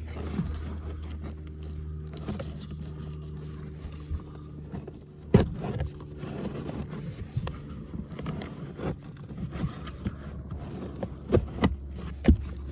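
Old cabin air filter being worked out of its plastic housing by hand: scraping and rubbing against the housing, with sharp plastic knocks and clicks, the loudest about five seconds in and several near the end. A steady low hum runs underneath.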